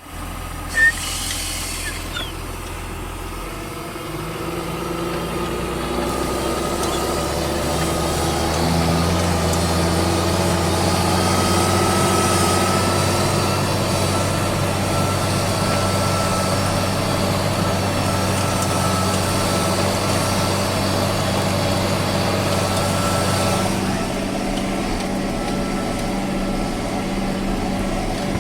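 John Deere 6630 tractor's diesel engine pulling a Vogel & Noot M1020 four-furrow plough. Its note rises over the first several seconds, then holds steady under load. There is one sharp knock about a second in.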